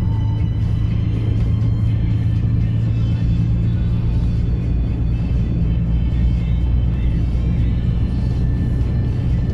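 Truck engine drone with steady low hum and road noise, heard from inside the cab as it drives, with music playing.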